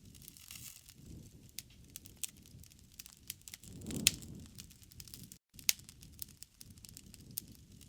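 Wood fire crackling, with irregular sharp pops and snaps over a low rustle, and one louder pop with a brief low rush about four seconds in. The sound cuts out for a split second a little after five seconds.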